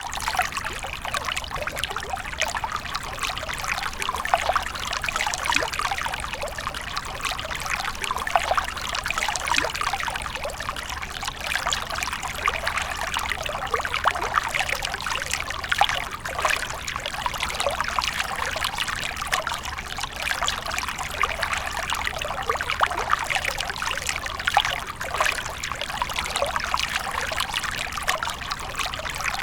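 Water fountain trickling and splashing steadily, a dense, even patter of small splashes.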